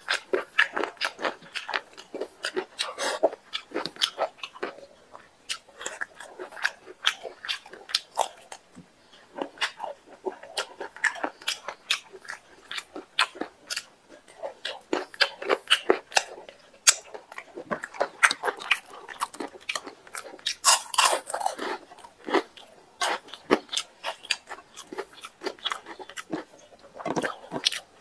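Close-miked chewing and biting of a mouthful of chicken curry and rice eaten by hand: a rapid, irregular stream of wet mouth clicks and smacks.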